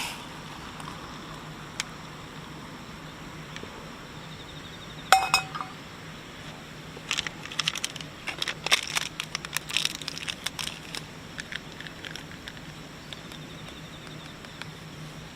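A single sharp clink with a brief ring about five seconds in, then a few seconds of quick small clinks and clicks of hard objects knocking together.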